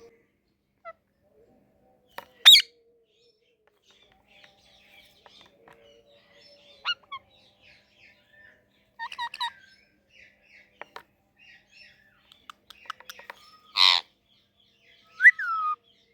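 Pet parrot calling in short bursts: scattered soft chirps and clicks, two loud squawks (one about two and a half seconds in, a bigger one near the end) and a rising-then-falling call just before it stops.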